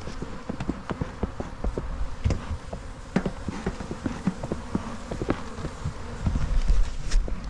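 Honey bees buzzing in numbers around an open hive, with many short light ticks and knocks scattered through, and a low rumble swelling about six to seven seconds in.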